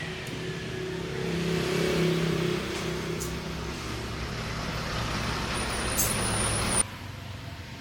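A motor running steadily, then cutting off suddenly near the end.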